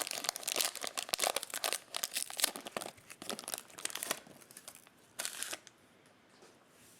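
Foil trading-card pack wrapper crinkling and tearing as it is ripped open, a dense crackly rustle that stops about four seconds in, with one more short rustle just after five seconds.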